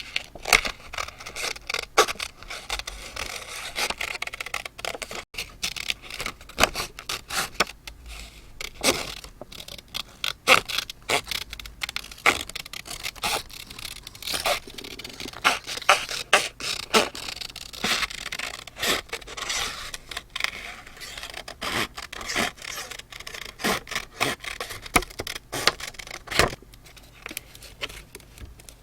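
Paper being handled on a journal page: irregular scraping and rubbing, broken up by many small taps and crackles.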